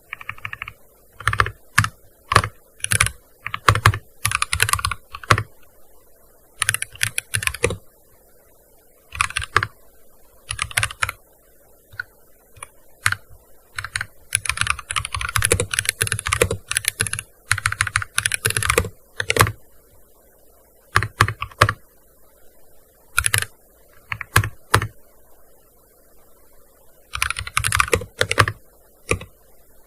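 Typing on a gaming keyboard: rapid runs of key clicks in bursts, broken by short pauses of a second or two.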